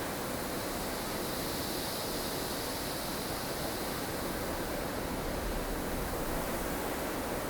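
Blustery snowstorm ambience: strong wind rushing steadily, with a higher hiss that swells and fades a couple of seconds in.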